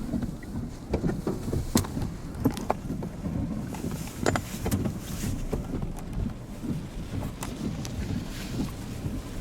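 Vehicle driving, heard from inside the cabin: a steady low road rumble with scattered sharp knocks and clicks, the loudest about two and four seconds in.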